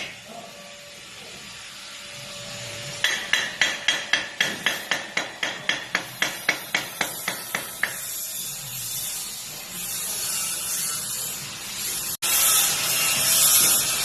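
A hammer striking metal in quick, even blows, about four a second, for about five seconds, then a steady crackling hiss that cuts out briefly and comes back louder near the end, typical of a gasless flux-core MIG welding arc.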